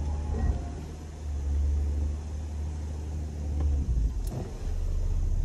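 Jeep engine running with a low rumble, revved up about a second in and again near the end as the Jeep pulls on a strap tied around a tree to draw its bumper out of the grille. A brief sharp click about four seconds in.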